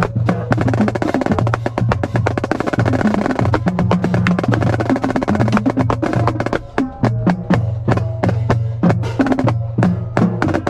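Marching snare drum played in fast, dense strokes and rolls, with sharp rim-like cracks, over background music that has a steady bass line.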